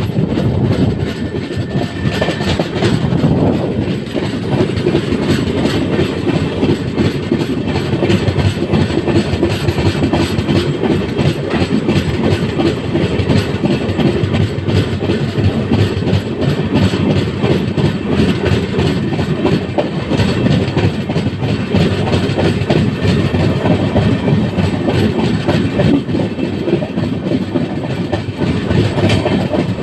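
Passenger train running along the track: a steady rumble of wheels on rail with a rapid clickety-clack of knocks over the rail joints.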